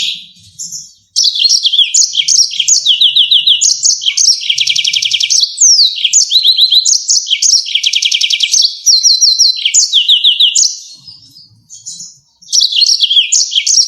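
Yellow-fronted canary singing: a fast, continuous run of high trills and chirps, with a brief lull near the end before the song resumes.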